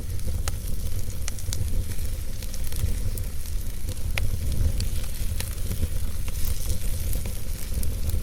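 Logs burning in a fireplace: a steady low rumble of the fire with a hiss, broken by irregular sharp crackles and pops.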